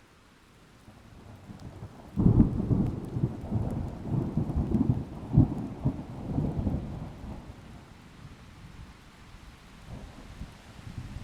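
A thunderclap over a light hiss of rain: a sudden loud low rumble breaks about two seconds in, crackles and peaks again near the middle, then rolls away, with a new rumble starting to build near the end.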